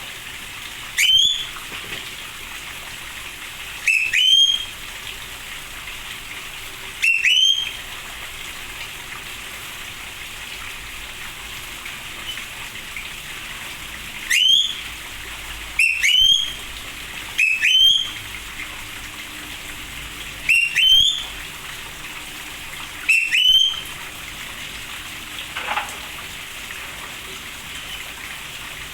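A bird repeating a short whistled call that rises and hooks upward at the end, eight times at irregular gaps of one to seven seconds. Under it runs a steady hiss of rain.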